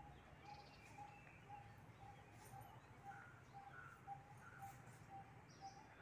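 Faint bird calls: one bird repeats a short note about twice a second, with other birds chirping now and then.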